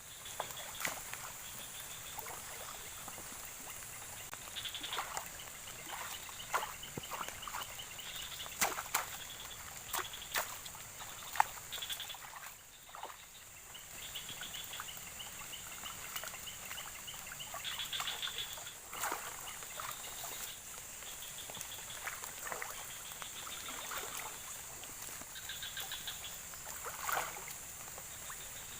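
Frogs and insects calling: a steady high insect whine under repeated rapid pulsed calls, with scattered sharp clicks and knocks throughout.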